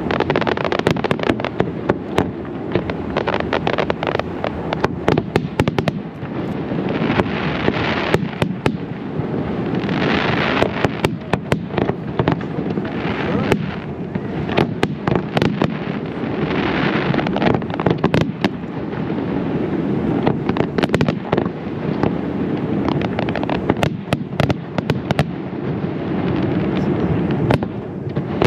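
Aerial fireworks display: a dense, continuous barrage of bangs and crackling over a steady low rumble of booms, with swells of hissing crackle about ten seconds in and again around seventeen seconds.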